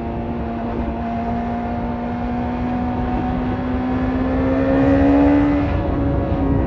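BMW S1000RR's inline-four engine running through an Akrapovic carbon exhaust after a tune. Its note climbs slowly and gets louder, then drops a little about six seconds in and holds steady.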